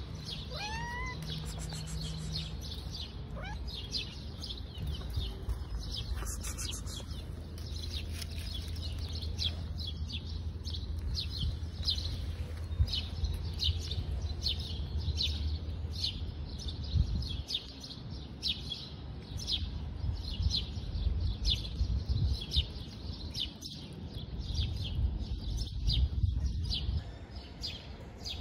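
A small bird chirping one short high note over and over at an even pace, about one and a half times a second, over a low outdoor rumble.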